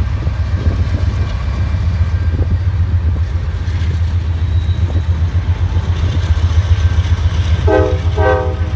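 Diesel locomotive engine idling with a steady low rumble. Two short horn blasts sound near the end.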